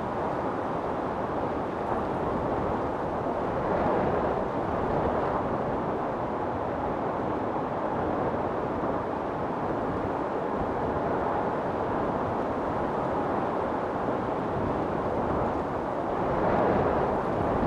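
Storm wind blowing in a steady rushing roar with a low rumble underneath, swelling in gusts about four seconds in and again near the end.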